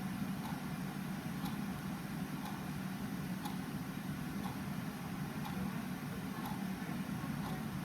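Clock ticking steadily, about once a second, over a steady low background hum.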